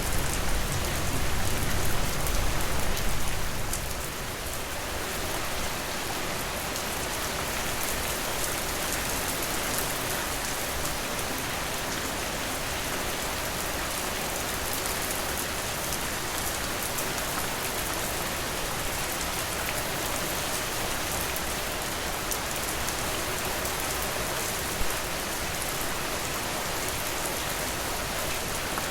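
Steady rain falling on a surface, with many close drops. During the first few seconds a deeper, louder rumble sits under it and fades out about four seconds in. One sharper drop stands out near the end.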